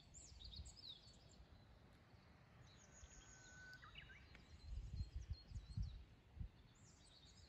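Faint birdsong: several birds chirping and whistling, with one short held whistle about three seconds in. A few low thumps come in the second half.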